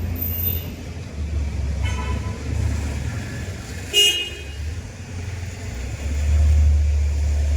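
Low rumble of road traffic, with a brief horn toot about four seconds in and a fainter toot about two seconds in.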